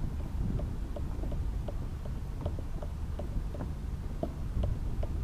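Wind buffeting the microphone, a steady low rumble, with faint, irregular light clicks over it.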